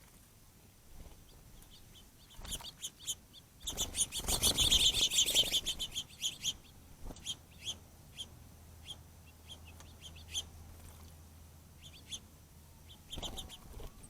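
Small songbirds chirping at a bird bath: short, sharp chirps scattered throughout. A dense, loud flurry of chirps with rustling noise comes about 4 to 6 seconds in, and a shorter one near the end.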